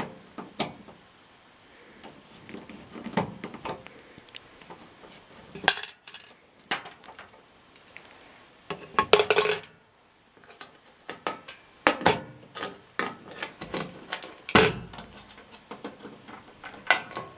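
Irregular metallic clicks, clinks and rattles of screws and a screwdriver being worked against the sheet-metal cabinet of an LG front-load washing machine as its screws are taken out, with a few louder rattling clatters along the way.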